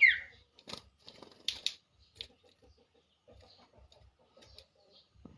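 A common iora's loud whistled note ending, falling in pitch, right at the start. Then a few sharp clicks and rustles, one about a second in and a pair around a second and a half, with faint scattered taps after.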